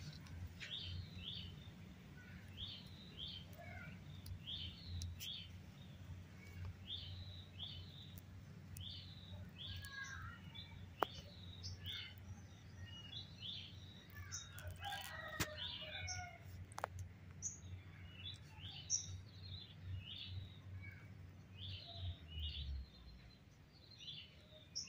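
A songbird repeats short, high chirps roughly once a second over a low, steady rumble that stops near the end. A few sharp clicks come through.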